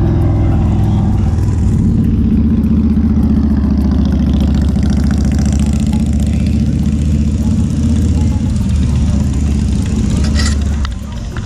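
A motor vehicle engine running steadily close by, dropping away suddenly near the end.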